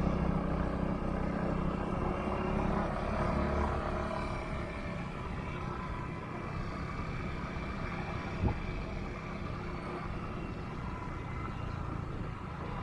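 Steady engine and rushing wind and road noise of a moving vehicle on the road, with one sharp knock about two-thirds of the way through.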